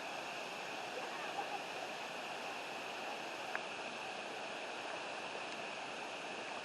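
Steady rush of river water and a waterfall, with one sharp tick about three and a half seconds in.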